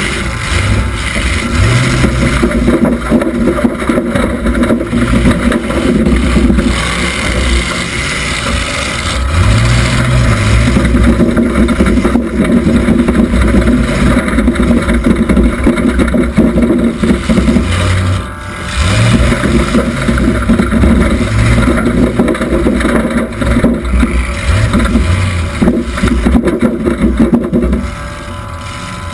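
1976 Oldsmobile Cutlass Supreme demolition-derby car's engine, heard from inside the car, revving up and dropping back again and again as it drives through the heat. It sounds loud and close, with a brief lull about 18 seconds in.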